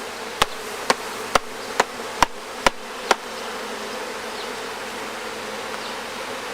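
Honeybees from an open hive humming steadily. In the first three seconds, seven sharp taps come about two a second, then stop.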